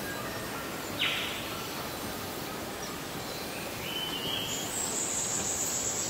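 Rainforest ambience: a steady hiss of insects and forest background, with a short sudden hissing burst about a second in. A high-pitched insect drone comes in near the end.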